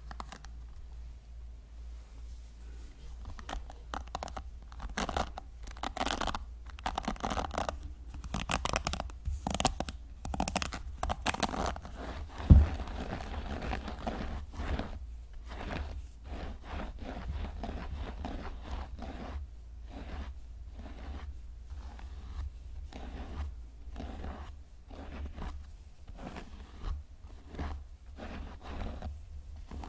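Hair brush bristles scraping and scratching in many irregular strokes close to the microphone, denser and louder in the first half. About twelve seconds in there is one sharp, low thump, the loudest sound.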